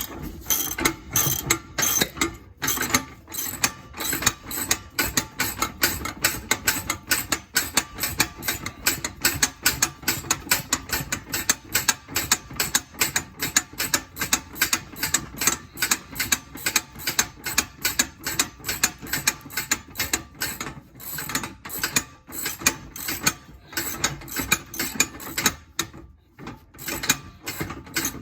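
Hand ratchet wrench clicking in quick, even strokes, about three a second, with a few short pauses. It is backing out the last bolt holding an exhaust X-pipe.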